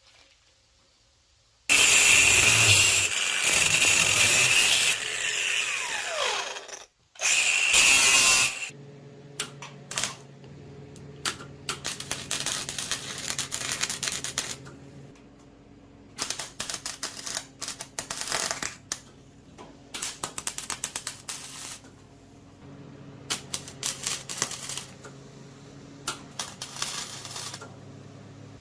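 Power drill running in two loud bursts, the first dropping in pitch as it spins down. These are followed by many irregular clicks and rattles of hand work with metal parts.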